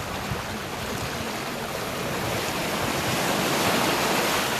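Sea waves washing on the shore: a steady rush that swells toward the end, with some wind.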